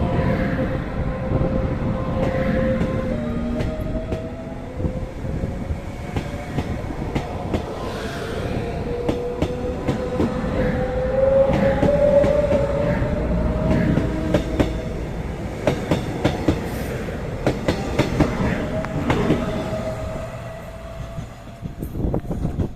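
Train running on rails: repeated clicks of wheels over rail joints over a steady rumble, with a whining tone that slowly wavers up and down in pitch. The sound fades near the end.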